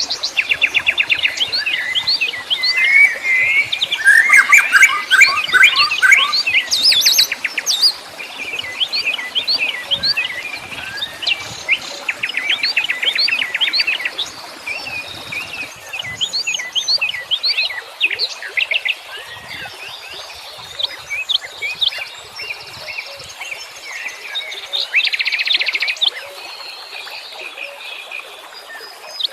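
Several wild birds chirping and singing at once in a busy chorus of overlapping fast trills and quick repeated notes. It is densest and loudest in the first half and thins out after about 16 seconds.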